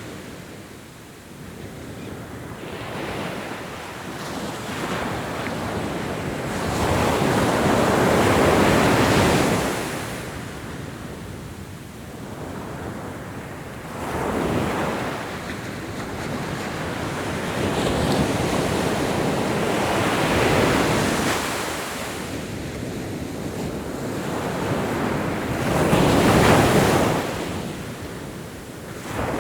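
Ocean waves breaking on a shore, the surf swelling and fading in slow surges every several seconds, the two loudest near a third of the way in and near the end.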